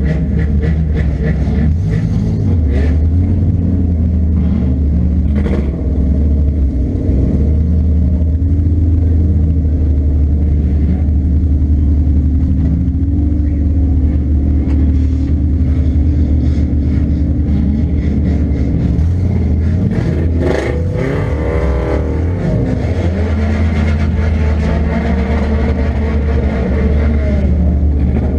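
Engine of a 1998 Nissan Pulsar 1.8 manual heard from inside the car, its revs rising and falling as it is driven. Short knocks and rattles come through the body now and then, and there is a quick run of revs up and down about twenty seconds in.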